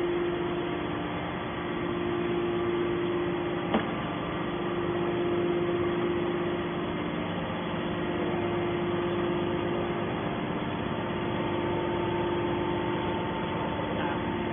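Y81 hydraulic scrap metal baler running, its hydraulic pump and motor giving a steady hum, with a single sharp click about four seconds in.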